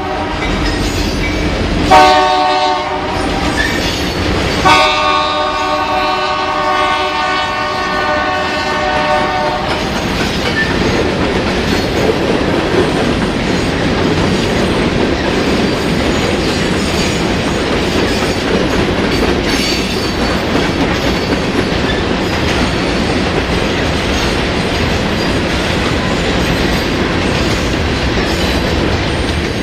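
Locomotive air horn sounding a chord: a short blast about two seconds in, then a long one that ends near ten seconds, the close of a grade-crossing signal. After that the train rolls past with steady rumble and clickety-clack of wheels over rail joints.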